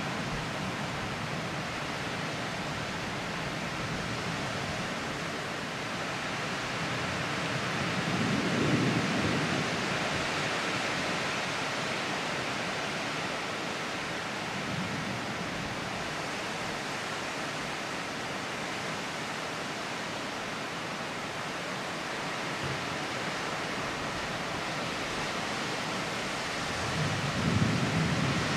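Heavy rain falling steadily during a thunderstorm, with low rumbles of thunder swelling about eight seconds in and again near the end.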